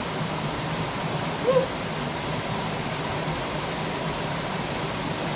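Waterfall rushing steadily, an even wash of falling-water noise, with one short shouted "woo" about a second and a half in.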